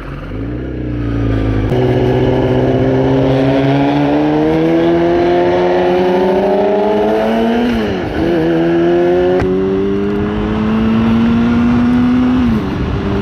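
Motorcycle engine accelerating through the gears: its pitch climbs steadily for about six seconds, drops sharply with a gear change around eight seconds in, climbs again, then drops with another shift near the end.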